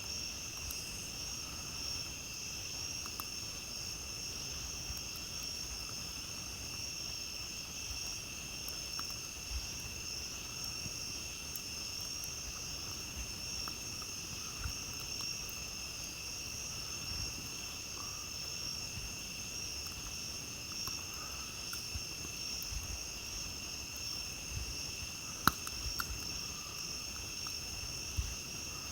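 A steady night chorus of crickets, a continuous high-pitched trilling, with scattered faint crackles from a campfire and a sharp pop near the end.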